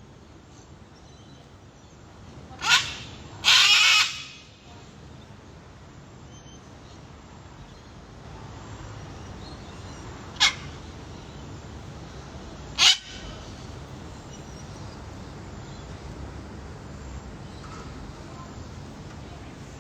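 Cockatoos squawking: four loud harsh screeches, the second one longer than the others, spaced over several seconds.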